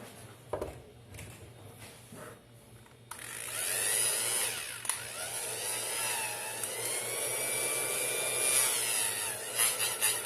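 Hair dryer switched on about three seconds in, its motor and fan running with a whine that wavers in pitch, then a fast fluttering rattle near the end. The noise comes from the fan sitting loose on the motor shaft, its fit worn and hair wound round the shaft.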